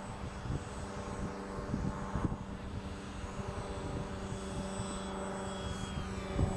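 Radio-controlled Hobbyking Cessna 1500mm model plane's motor and propeller running in flight: a steady drone with a high whine that rises a little near the end, over low rumbling wind on the microphone.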